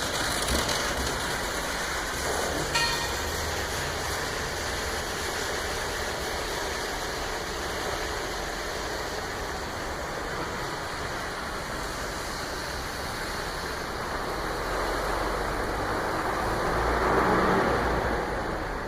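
A steady rushing noise, with a short click about three seconds in and a swell in level near the end.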